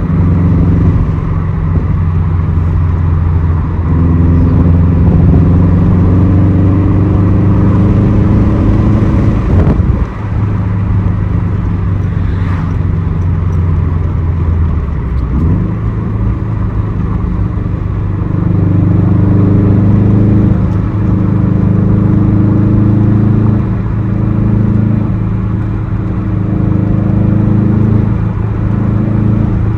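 2006 Subaru STI's turbocharged flat-four engine through a Tomei aftermarket exhaust, driven hard: the engine note climbs under acceleration and drops at gear changes about ten seconds in and again around fifteen seconds.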